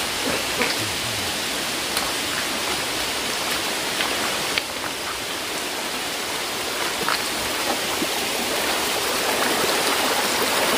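Waterfall and the stream below it rushing steadily: a continuous hiss of falling water.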